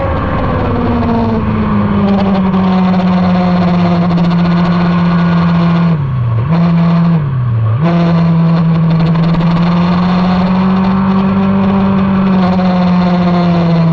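Motorcycle engine running hard at steady, high revs. About six and seven seconds in, the engine note drops sharply twice in quick succession and comes straight back up.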